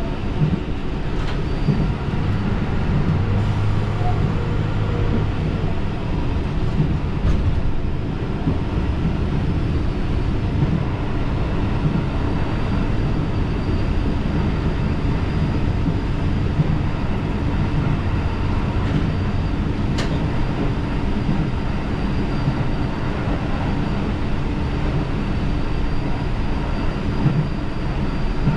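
Diesel railcar running along the line at steady speed, heard from on board: a constant rumble of engine and wheels on the rails, with a single sharp tick about twenty seconds in.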